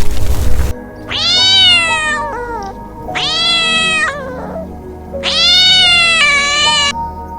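A domestic cat meowing three times in long, drawn-out meows over steady background music, after a brief burst of hissing noise that cuts off at the start.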